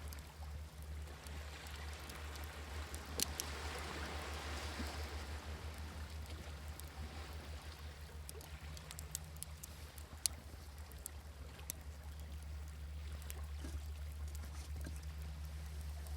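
Wood fire crackling with scattered sharp pops over the wash of sea waves; a wave swells in and recedes about three to five seconds in, with a steady low rumble of surf underneath.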